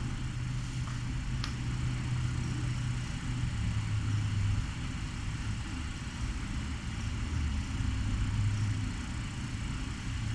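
A steady low hum that swells and eases a little, over a faint hiss.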